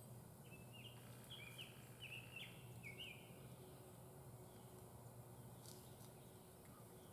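A songbird singing a short run of quick chirping notes for about three seconds, against near-silent background.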